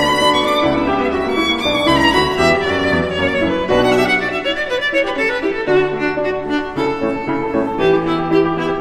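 Background music led by a violin playing a melody over a low sustained accompaniment.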